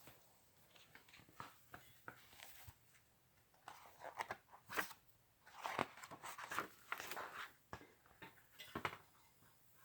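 Faint, irregular rustling and crinkling of paper: a picture book's pages being handled and turned.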